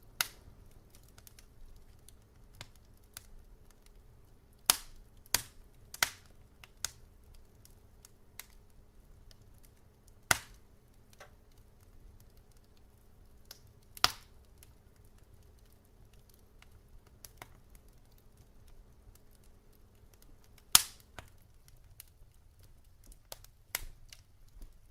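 Logs burning in a fireplace, crackling: irregular sharp snaps and small ticks over a quiet bed, with about eight louder pops spread through.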